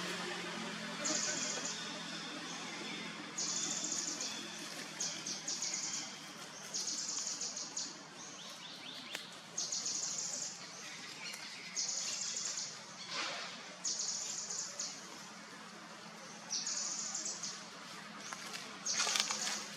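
Short, rapid high-pitched trills from a small animal, repeated every one to two seconds over a steady background hiss.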